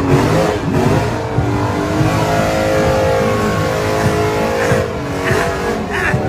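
A motor vehicle engine running, its pitch holding fairly steady through the middle.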